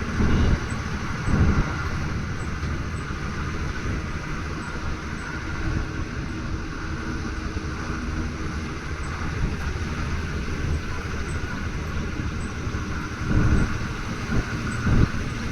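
Steady rumble and road noise of a moving vehicle, with low gusts of wind on the microphone near the start and again near the end.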